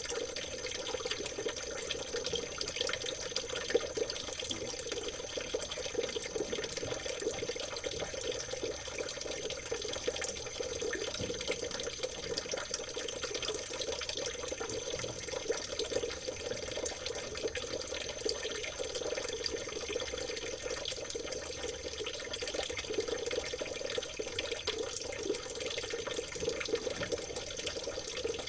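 Small stream of water trickling and babbling steadily and unbroken.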